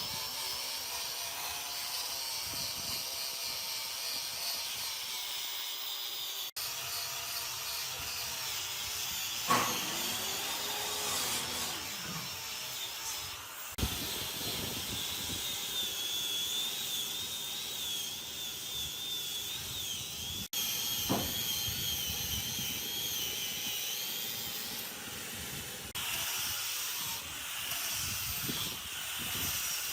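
Handheld power tool running on wood, with a high whine that wavers as the load changes; the sound breaks off abruptly a few times.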